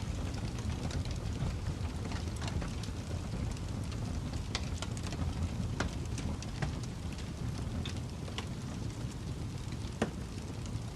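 Wood fire crackling in a fireplace: a steady low rumble of flames with scattered sharp pops and snaps, the sharpest about ten seconds in.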